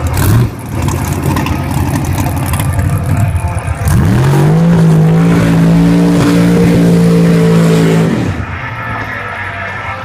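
Drag-racing car engine: a rough, loud rumble, then about four seconds in it revs up quickly and holds steady high revs for about four seconds. Near the end it drops away.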